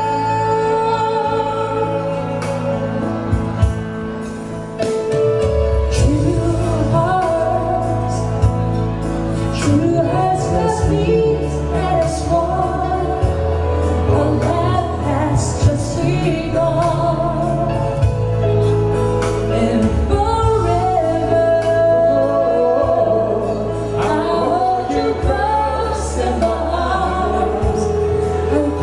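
Live band playing a slow ballad with a singer; bass and drums come in about five seconds in under sustained keyboard chords.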